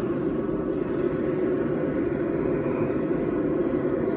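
A forge running with a steady, unbroken rushing hum at a constant level.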